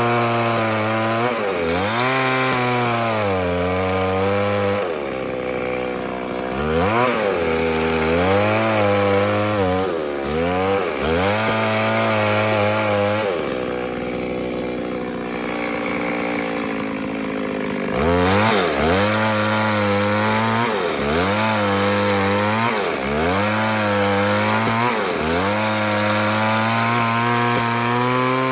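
Two-stroke chainsaw cutting wood: the engine pitch repeatedly drops as the chain bites in and climbs back as it frees, every second or two. Midway it settles for a few seconds at a lower, steadier speed, then resumes the repeated dips.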